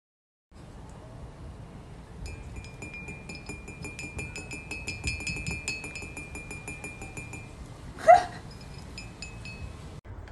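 Rapid clinking ticks with a steady high ringing tone for several seconds, like a small bell or metal toy being rattled, then one short loud parrot squawk that falls in pitch about eight seconds in.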